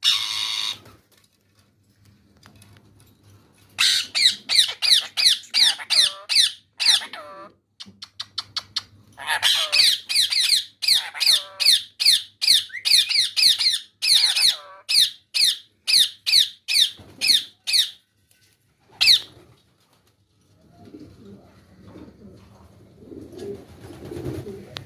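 Pet parrot screeching in rapid runs of short, sharply falling calls, about three a second, with a pause between two long bouts.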